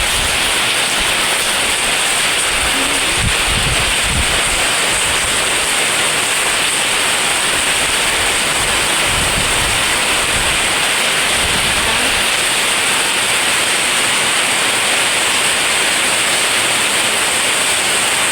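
Heavy rain falling in a steady, loud hiss during a windstorm. Low rumbling gusts hit the microphone about three seconds in and again about nine seconds in.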